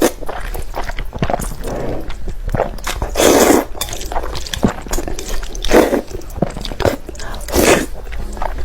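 A person eating close to the microphone: bites and chewing with small clicks, and louder bursts about three, six and seven and a half seconds in.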